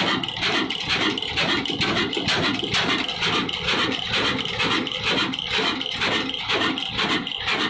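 Old Ruston Hornsby stationary diesel engine running steadily, its exhaust beating in an even, quick rhythm.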